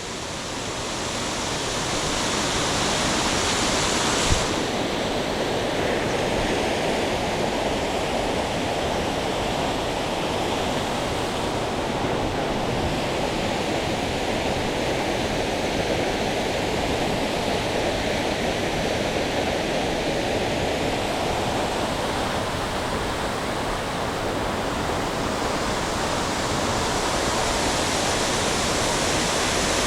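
A waterfall's rushing water, a loud, steady roar that swells up over the first couple of seconds, with a single brief knock about four seconds in.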